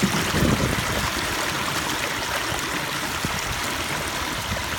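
Small landscape waterfall pouring steadily into a pond, water splashing and trickling over stone.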